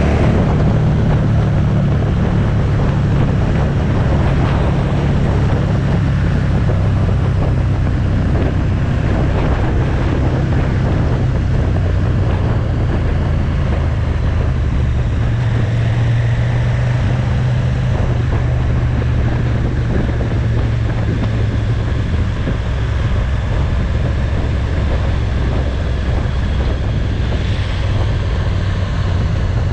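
Motorcycle engine running at road speed, a steady low note that shifts slightly in pitch a few times, under heavy wind noise buffeting the microphone.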